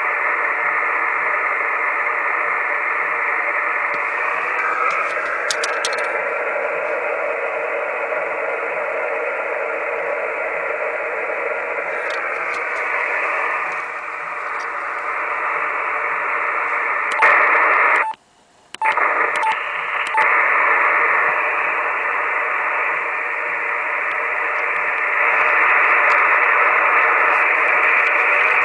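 Amateur radio receiver hiss, held within the narrow voice band, with several faint steady whistles that slide in pitch twice as the receiver is tuned. The audio cuts out for about a second past the middle, with clicks on either side.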